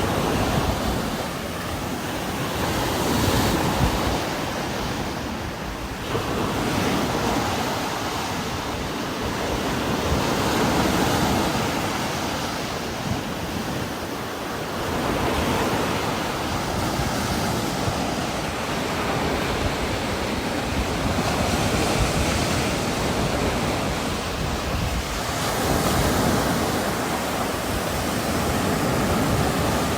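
Heavy rain falling in a strong wind, a dense steady hiss that swells and eases every few seconds as gusts push through the trees.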